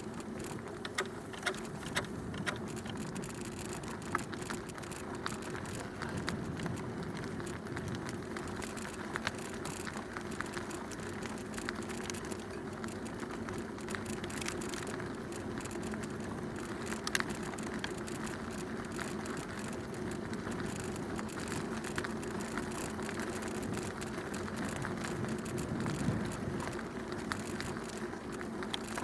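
Bicycle ridden along a canal towpath: steady tyre noise on the path surface, with many small clicks and rattles and a few sharper knocks.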